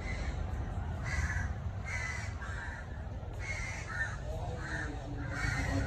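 A bird calling over and over in short calls, about two a second with a brief pause midway, over a low steady rumble.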